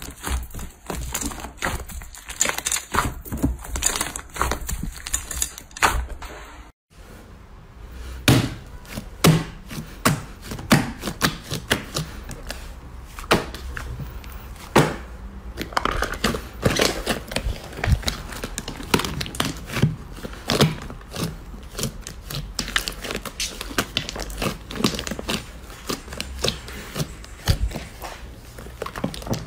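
Slime being squeezed, poked and stretched by hand, making many quick wet clicks and pops. The sound breaks off briefly about seven seconds in and resumes with louder, more spaced pops.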